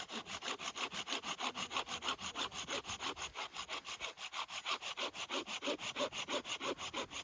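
Hand saw cutting through wood with quick, even back-and-forth strokes, about six a second.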